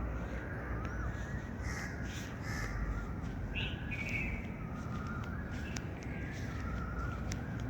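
Birds calling: a run of short, overlapping calls, some rising and falling in pitch, one after another, over a steady low rumble.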